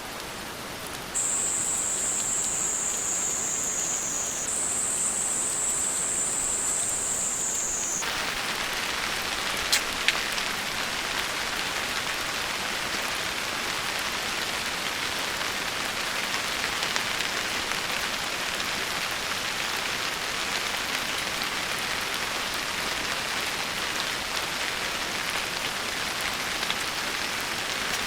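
Steady rain falling, an even patter. For the first eight seconds a high thin hiss sits over it, then ends with a short downward slide. Two sharp ticks come about ten seconds in.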